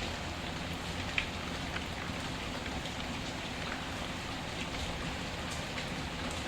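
Steady rain mixed with a crackling wood fire: a continuous hiss of rain with a few scattered sharp pops from the fire, the loudest about a second in.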